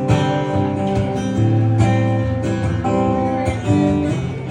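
Acoustic guitar strumming and letting chords ring, the instrumental introduction to a song.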